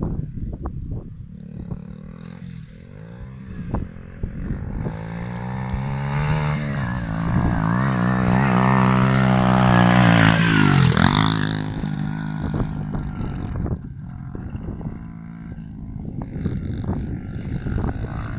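Dirt bike engine revving and changing up as it comes closer, loudest about ten seconds in as it passes with a sharp drop in pitch, then fading away.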